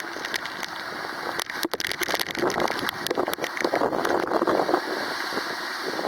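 Typhoon rain and wind, a steady rushing noise crossed by many sharp ticks of drops striking close by. The rush swells from about two seconds in to near five seconds, then eases back.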